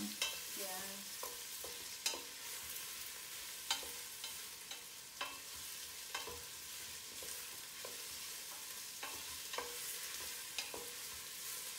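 Sliced onion, ginger and garlic sizzling in oil in a stainless steel pot, with a steady hiss, while a wooden spoon stirs them and knocks against the pot at irregular moments.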